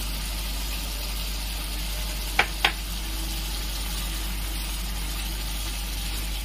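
Onion and spice paste sizzling steadily in hot oil in a frying pan, with a low steady hum under it. About two and a half seconds in, the spatula clicks twice against the pan in quick succession.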